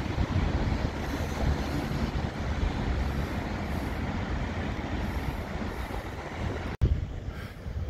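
Passenger train running past: a steady rumble of wheels on track that stops abruptly about seven seconds in.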